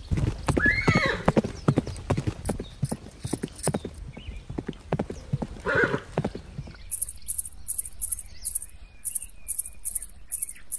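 Horse hooves clip-clopping, with a whinny about a second in and another about six seconds in. After about seven seconds the hoofbeats stop and a run of high chirps follows, about three a second.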